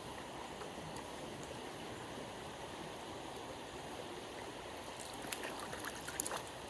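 Small upland stream running over stones, a steady rush of water. From about five seconds in, a few sharp clicks and knocks sound over it.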